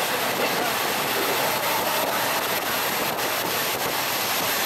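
Steady rush of wind and rolling train noise at the window of a moving passenger train, with a few faint clicks.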